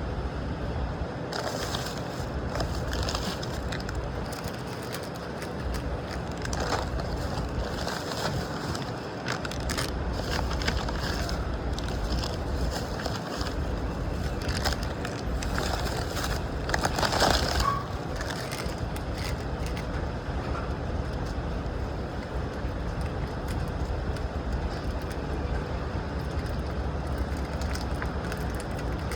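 Steady low rumble of a vehicle running, with crackling and rustling over the microphone, as of a phone being handled or rubbing against clothing, heaviest in the first half and loudest about two-thirds of the way through.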